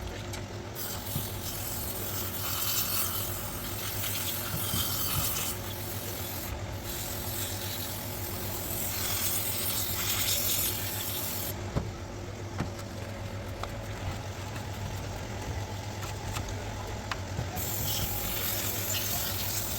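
Throttle body being cleaned: a hissing spray that runs in long stretches of several seconds, stopping and starting three times, over a steady low hum and a few small clicks.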